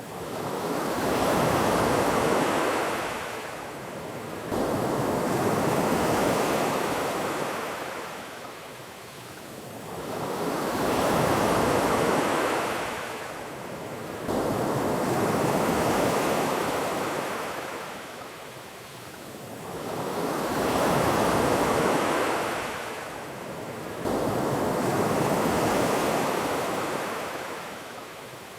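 Ocean waves breaking and washing up a beach, swelling and ebbing in slow, even surges about every four to five seconds.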